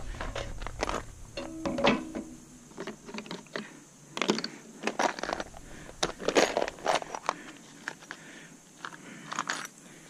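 Irregular metallic clinks, knocks and clatter of metal parts and hand tools being handled while a stainless steel steamer is taken apart, with a brief ringing note about two seconds in.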